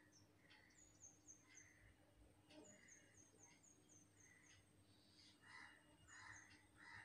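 Near silence with faint bird chirps: runs of short, quick, downward-sliding high notes, a few about a second in and a longer run of about eight in the middle.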